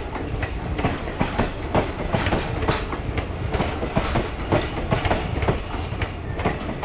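Passenger train coaches passing close by: the wheels clatter quickly and unevenly over the rail joints, over a steady rumble.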